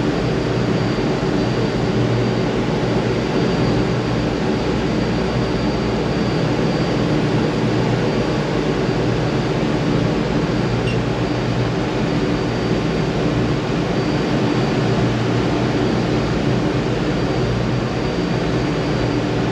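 Steady drone of ship's engine-room machinery, with several constant low hum tones and a faint high whine, unchanging throughout.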